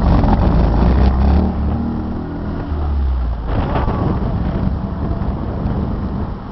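Car engine running under way, loudest and deepest for the first three seconds, then easing off. A brief rush of noise comes a little past halfway.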